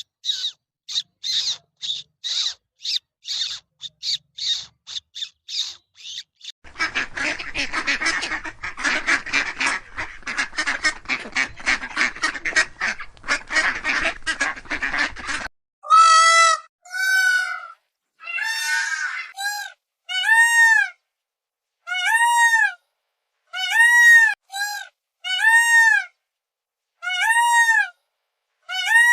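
A series of recorded bird calls in three parts: quick high calls repeating about twice a second, then a dense chattering of many birds, then loud honking calls that rise and fall in pitch, about one a second.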